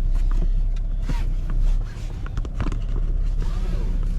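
Car driving, heard from inside the cabin: a steady low engine and road rumble, with a few light clicks and rattles.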